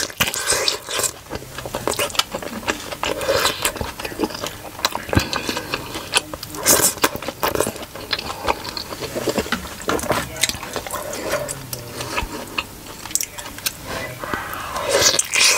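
Chewing a big mouthful of steamed pork momo, with irregular mouth clicks and smacks that grow louder near the end.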